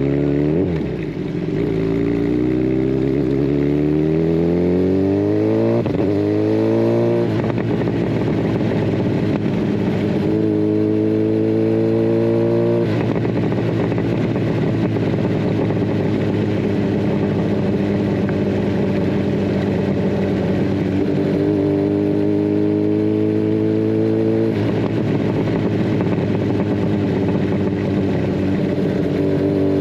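Kawasaki Ninja 1000SX inline-four running through a de-catted Scorpion Red Power exhaust, pulling through the gears. The engine note climbs, drops at three upshifts, and holds steady while cruising in between, over a constant rush of wind and road noise.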